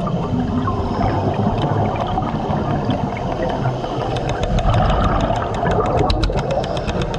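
Underwater hydraulic hammer drill working concrete: a steady rumbling noise, and from about four seconds in a rapid, even hammering of sharp strikes that grows denser toward the end.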